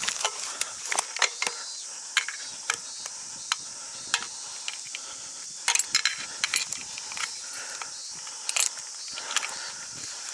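Irregular clicks and light knocks of hardware being handled, over a steady high hiss.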